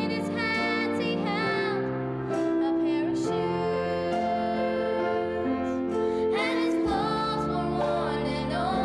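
School singers performing a slow, tender holiday song with instrumental accompaniment, the voices wavering with vibrato on held notes.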